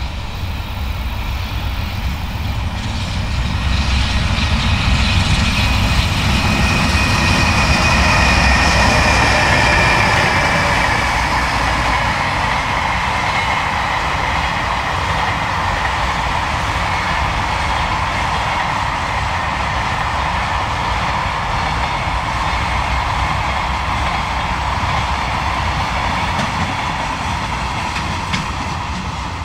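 JR Freight EH500 electric locomotive passing at speed, followed by a long train of container wagons rolling by: a steady rumble of wheels on rail that grows louder over the first ten seconds and then holds. A faint high whine falls in pitch about seven to twelve seconds in.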